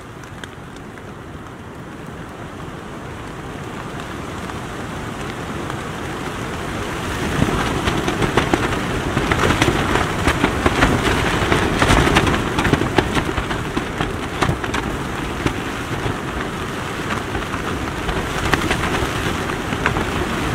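Heavy rain falling on a tent's flysheet, heard from inside: a dense hiss of drops with sharper spatters, growing louder over the first several seconds and then staying heavy.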